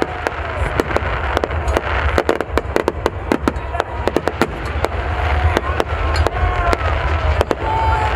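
Aerial fireworks going off in quick succession: a dense run of sharp bangs and crackles over a continuous low rumble.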